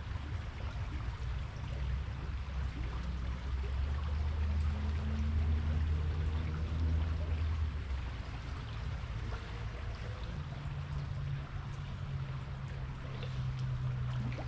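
Creek water running over a shallow, fast-flowing stretch: a steady rushing. Under it is a low steady hum that shifts slightly higher partway through.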